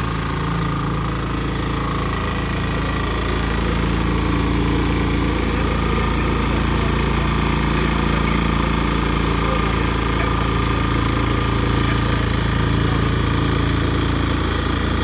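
Engine of an LM800 remote-control lawn mower running steadily, getting slightly louder about four seconds in.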